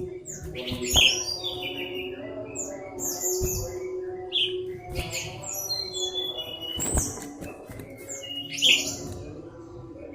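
Songbirds chirping busily in many short, high calls that slide downward, overlapping one another. A steady low hum runs underneath, with a few sharp knocks.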